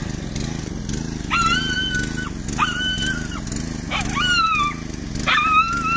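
Dog whining in distress while stuck in an iron gate: four long, high, steady cries of about a second each, over a steady low rumble.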